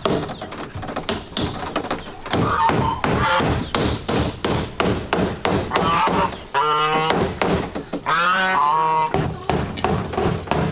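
Steady chopping blows, about three a second, with two long pitched animal calls around the middle.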